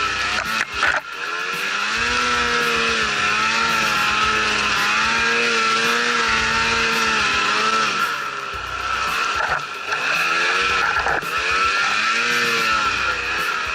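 Snowmobile engine working hard in deep snow, its pitch rising and falling as the throttle is worked, with a steady high whine over it.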